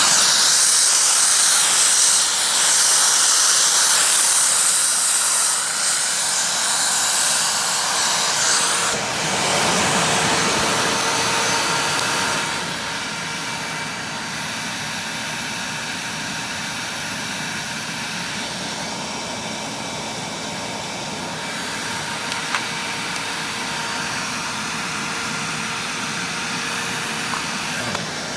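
Upright vacuum cleaner (a Hoover WindTunnel fitted with a Maytag-era motor) running in tool mode through its hose with the pet hair turbo tool attached, air rushing with a loud hiss. The sound is loudest for about the first nine seconds, then settles quieter and steadier from about twelve seconds in.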